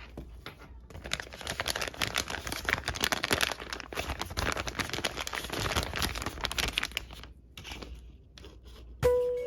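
Packaging crinkling and tearing as it is handled and opened: a dense run of crackles that thins out after about seven seconds. A loud musical tone comes in just before the end.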